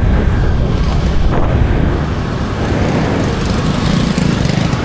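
Road traffic noise: a steady low rumble of vehicles, dipping slightly about two seconds in.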